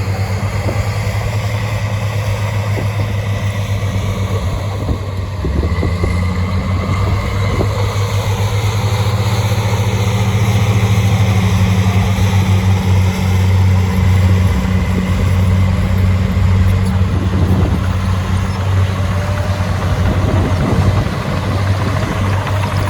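Heavy diesel engine of earthmoving machinery running steadily with a deep drone.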